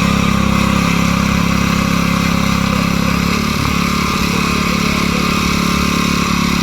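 An engine idling steadily, with a slight change in its tone about three and a half seconds in.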